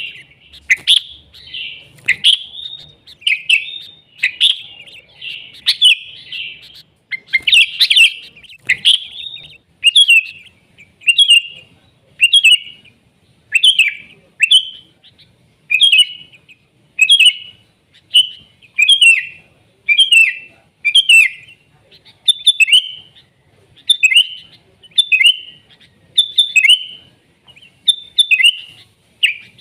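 Sooty-headed bulbul calling over and over in short, bright, bubbly phrases: a dense run for the first several seconds, then separate phrases about once a second.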